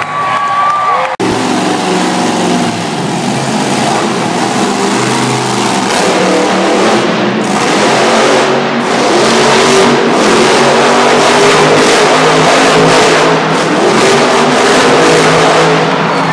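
Monster truck engine revving hard and loud, its pitch rising and falling as the truck spins donuts, with a brief cut in the sound about a second in.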